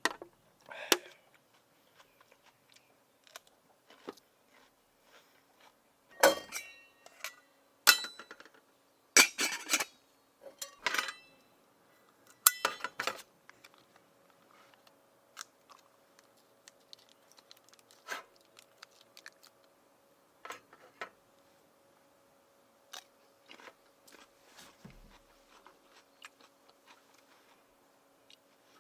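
Irregular sharp clicks, knocks and clatter of small objects being handled, heaviest in a cluster a quarter of the way in, over a faint steady hum.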